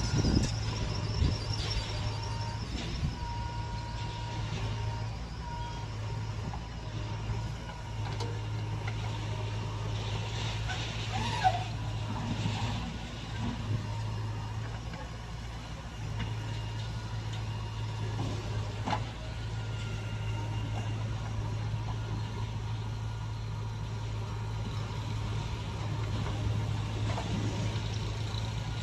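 Diesel engine of a JCB 3DX backhoe loader running steadily while loading soil, with a few sharp knocks.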